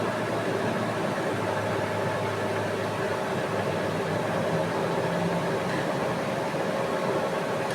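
TOS WHN 13 CNC horizontal boring machine running, a steady mechanical hum with several held tones over a hiss of noise.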